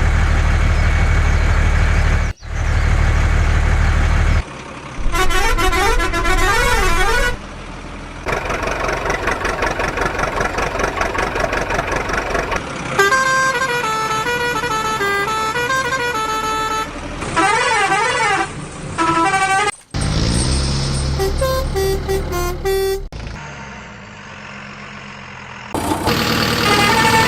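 A quick run of vehicle sounds cut one after another: a steady engine-like rumble, horn toots, and tones that wail up and down like sirens, each section breaking off suddenly into the next.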